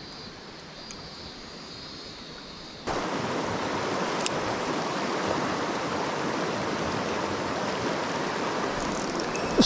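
Mountain stream water rushing steadily, jumping sharply louder about three seconds in. A short sharp knock comes right at the end.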